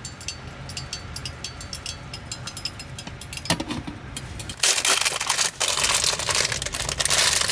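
Crinkling and rustling of plastic packaging with many small clicks and crackles, louder from a little past halfway.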